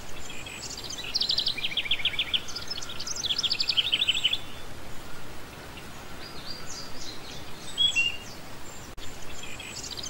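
Small cage birds chirping, in short quick runs of high chirps, over a faint steady hiss of room noise.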